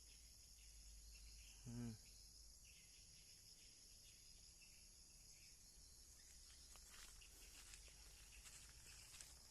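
Near silence, with a faint steady insect chorus such as crickets, and a brief voice sound about two seconds in.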